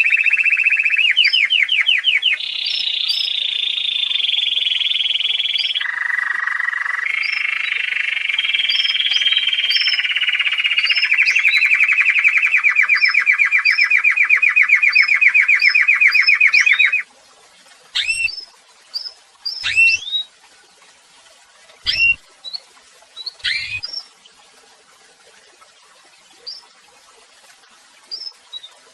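Songbird singing long, rapid trills that shift pitch in steps, going on for about seventeen seconds and then stopping abruptly. After that come separate sharp calls sweeping downward, several with a low thump, while thin, high chirps repeat in the background throughout.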